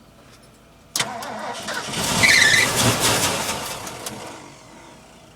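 Ford F-350's carbureted engine cranked on the starter after a fuel prime: it starts suddenly about a second in, swells louder, then dies away within a few seconds, a failed hard start from fuel not reaching the carburetor.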